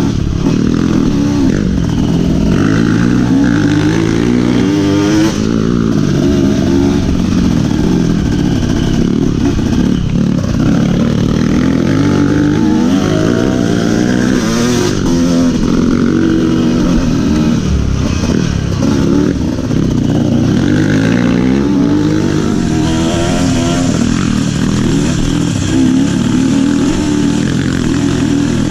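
Trail motorcycle engine running under load, its pitch rising and falling again and again as the throttle is worked.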